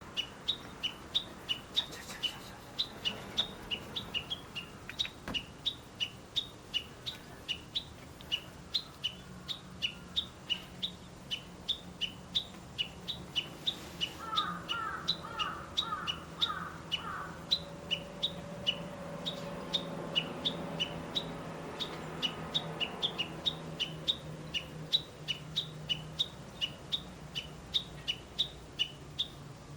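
A small songbird repeating a short, slightly falling chirp about three times a second. Midway, a brief run of about five lower notes is heard, and a low steady hum builds underneath from about a third of the way in.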